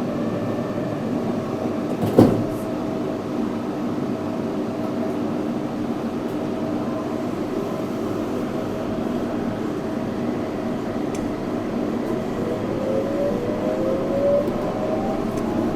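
Steady running noise of a rubber-tyred Yurikamome 7300-series automated guideway train, with a single sharp knock about two seconds in. From about twelve seconds in, an electric motor whine rises in pitch as the train accelerates.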